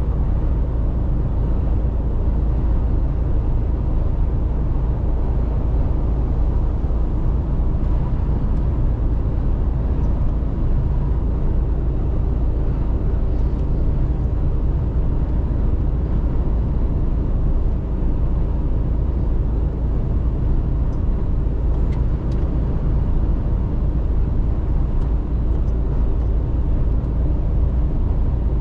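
Mercedes-Benz Actros truck on the move: a steady low drone of engine and road noise that holds even throughout.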